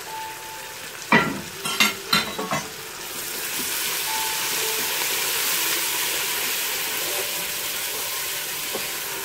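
Onions, ginger and garlic sizzling in hot oil in a pot while being stirred with a wooden spoon. A few sharp knocks come about a second in, then a loud, steady frying hiss builds from about three seconds in and cuts off suddenly.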